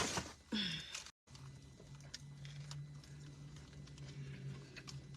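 Loud paper crinkling for about a second, then a sudden break, followed by a quiet steady low hum with a few faint clicks.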